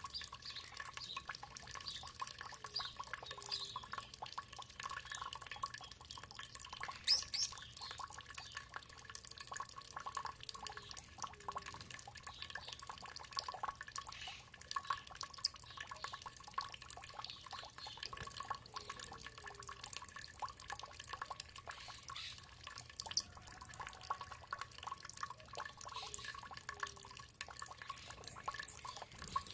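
Water trickling and dripping in a dense, steady patter, with a few short bird chirps, one brighter than the rest about seven seconds in.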